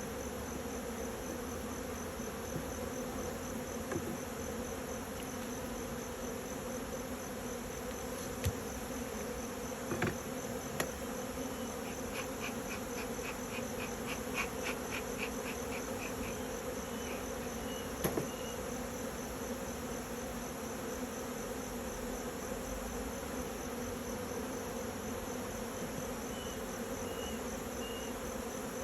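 Honeybee colony at the hives humming steadily, a dense buzz of many bees' wings. A fast, steady high pulsing from another insect sits over it, with a run of short chirps about halfway through and a few sharp clicks.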